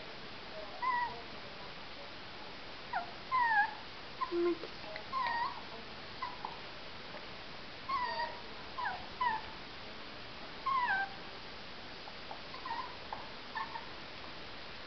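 Jack Russell terrier puppy whimpering: an irregular string of short, high whines, several gliding down in pitch.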